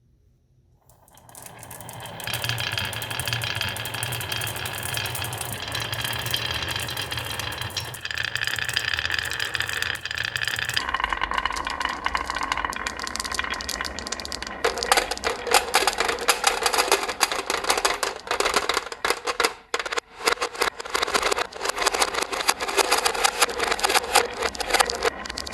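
Marbles rolling along a rain-gutter and wooden-rail marble run. After a moment of quiet a continuous rolling sound builds up with a faint ringing. A little past halfway it turns into a dense rattle of quick clicks as the marbles knock against the rails and each other.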